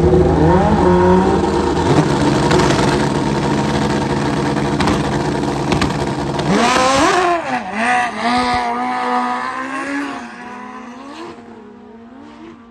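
Drag-racing sport motorcycle engines at full throttle down the track: loud and steady at first, then after about six seconds the pitch drops and climbs several times and the sound fades away.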